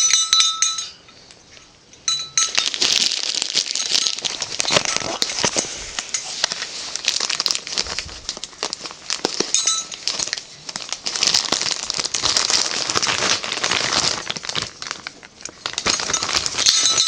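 Peanuts in the shell being handled, with a busy run of small clicks, clinks and rustling as they rattle and knock together and against their container.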